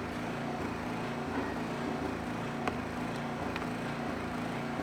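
Steady background hum, with two faint clicks about two and a half and three and a half seconds in.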